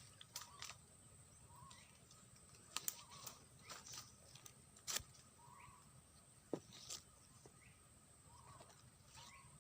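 Faint short bird chirps repeating every second or two, with scattered sharp clicks and a steady faint high-pitched tone behind.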